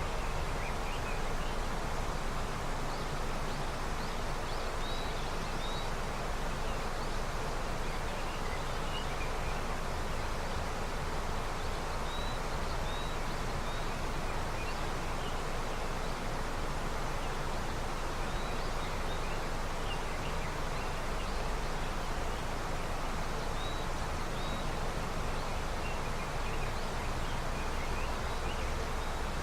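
A river flowing steadily with early spring snowmelt, an even noise of running water. Faint short, high bird chirps come now and then, often in pairs.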